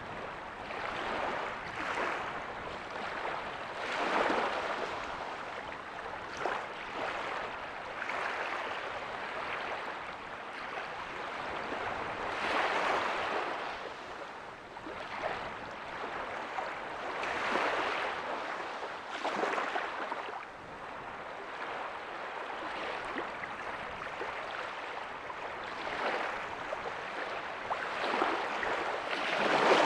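Small ocean waves breaking and washing up a beach, a steady rush of surf that swells every few seconds as each wave comes in.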